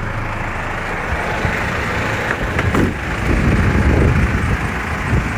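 Detroit DD5 5.1-litre diesel engine of a Freightliner M2 box truck idling, with a louder, uneven low rumble in the second half.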